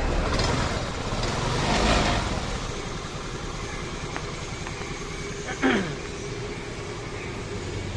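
Honda Activa scooter's single-cylinder four-stroke engine running after a rebuild with a new crankshaft bearing, piston and timing chain: it revs up about two seconds in, then settles to a steady idle. A short downward-sliding sound is heard about two-thirds of the way through.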